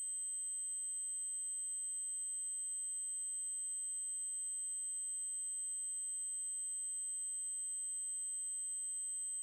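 Steady 8192 Hz triangle-wave test tone: a single very high, unchanging continuous pitch.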